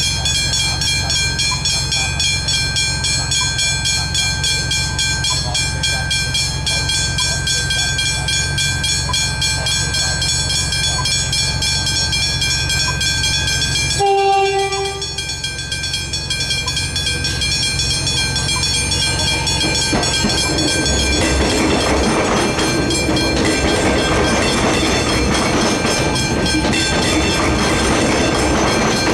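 Level crossing warning bells ringing rapidly and steadily, then stopping abruptly. A short train horn blast follows, and then a train runs over the crossing with wheels clattering on the rails.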